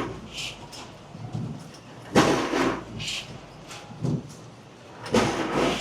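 Clattering and rustling as bag clips are handled and fed into a potato bagger's clip closer. Two longer bursts of noise come about two seconds in and near the end, with lighter knocks between.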